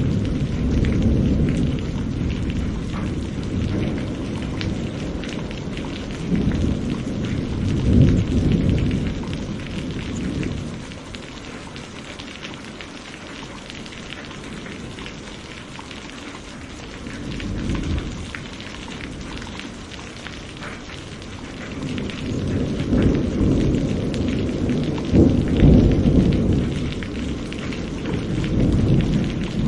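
Steady rain with rolling thunder that swells and fades several times: a rumble near the start, a louder one about eight seconds in, a short one around eighteen seconds, and a long heavy roll through the last third.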